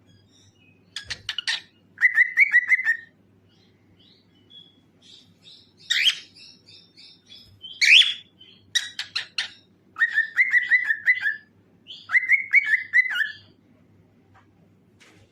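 Cockatiel singing: bursts of quick chirps and short warbled whistled phrases, with a sharp louder call about six seconds in and another about eight seconds in, between brief pauses.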